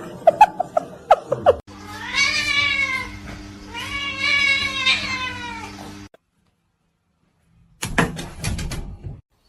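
Cat meowing twice, two long drawn-out meows that rise and fall in pitch, over a steady low hum. After a brief silence, a short burst of other noise comes near the end.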